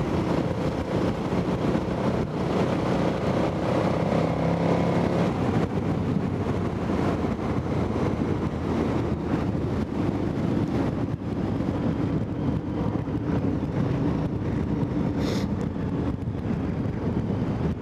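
KTM 990 Adventure's V-twin engine running as the motorcycle rides along, with wind rush on the microphone; the engine note shifts in pitch about five seconds in, then holds steady.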